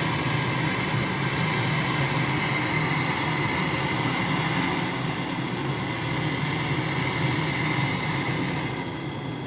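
A motor running steadily: a constant low hum with a thin, steady whine above it, easing a little near the end.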